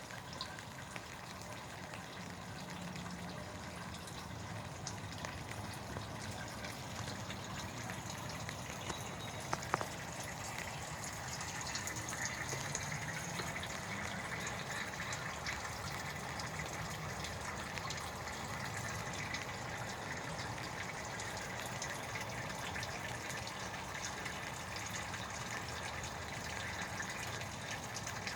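Steady hiss of falling rain, with one sharp click about ten seconds in.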